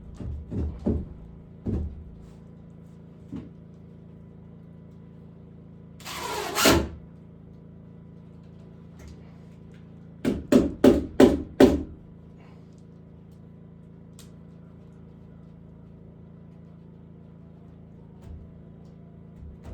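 Woodworking knocks and hammer blows in a small room: a few knocks at the start, a one-second scraping rush about six seconds in, then five quick, loud blows about ten seconds in, over a low steady hum.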